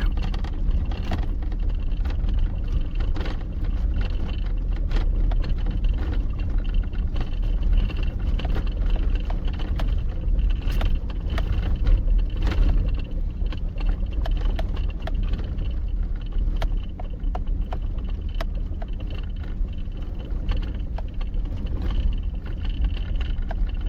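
Vehicle driving slowly over a rough dirt track, heard from inside the cabin: a steady low engine and tyre rumble with frequent rattles and knocks as it goes over bumps.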